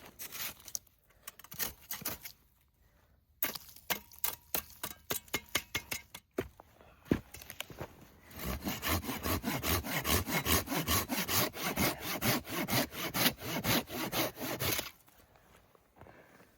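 Wood being sawn by hand. Short irregular strokes come first, then a fast, even run of about four to five strokes a second that starts about halfway through and stops shortly before the end.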